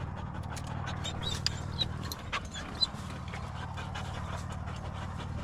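Hunting dog panting steadily, with a few light clicks and short high chirps about one and a half to three seconds in.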